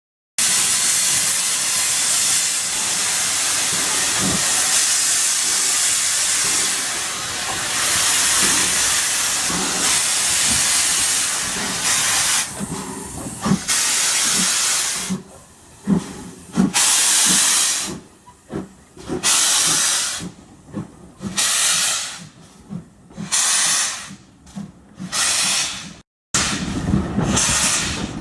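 Ivatt Class 2MT tank engine No. 41313 hissing steam: a loud continuous hiss for about fifteen seconds, then separate bursts of hiss about a second long with short gaps between them, until a sudden cut near the end.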